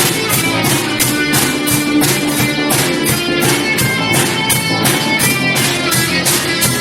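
Live rock band playing an instrumental passage: guitar over drums, with cymbal strokes keeping a steady beat of about three a second.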